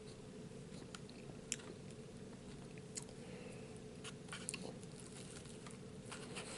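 A person chewing food, faint, with scattered short clicks over a steady low hum.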